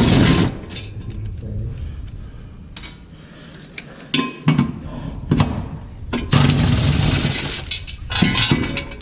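Metal clinking and clattering of hand tools and hardware as engine mount bolts are worked off: several short loud bursts and one longer clatter of about a second past the middle.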